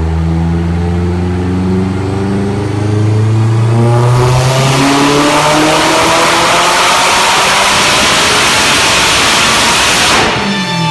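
Subaru WRX's turbocharged EJ257 flat-four with a BorgWarner S300SXE turbo in a full-throttle dyno pull, revs climbing steadily. About four seconds in it turns much louder, with a heavy rushing noise over the engine note. Near the end the throttle closes sharply and the revs fall away.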